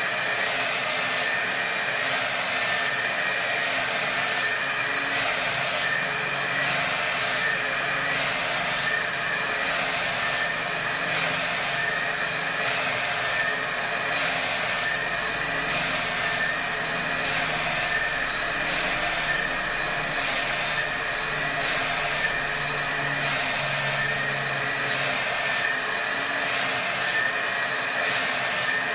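Hair dryer blowing steadily at full power: an even rush of air with a fan-motor whine and a slight regular pulsing.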